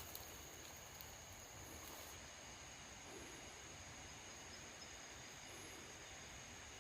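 Quiet night-time woodland ambience: a faint steady hiss with a thin, continuous high-pitched insect drone.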